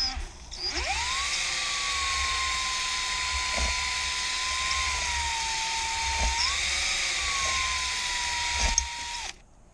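Electric drill spinning a cylinder hone inside a 1985 Kawasaki KLT160 motorcycle cylinder, worked up and down the bore. The drill winds up about half a second in, runs with a steady whine that rises briefly around six seconds in, and stops shortly before the end.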